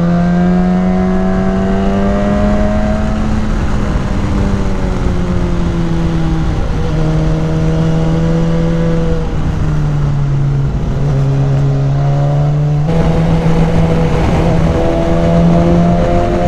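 BMW S1000XR inline-four engine, fitted with a K&N high-flow air filter, running steadily under way, its pitch rising and falling gently with the throttle and dipping briefly around ten seconds in, over a steady rush of wind.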